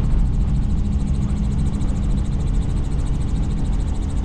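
Helicopter in flight: steady rotor and engine noise with a deep rumble and a constant low hum.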